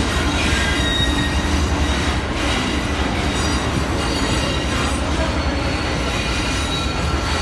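Passenger coaches of an arriving express train rolling slowly along the track: a steady rumble of wheels on rail, with a faint high wheel squeal over it.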